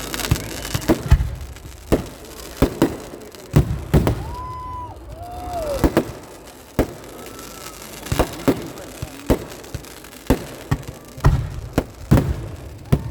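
Festival fireworks going off: about twenty sharp explosive bangs at irregular spacing, sometimes two or three in quick succession. A couple of short whistling tones sound about four to five seconds in, the second one falling in pitch.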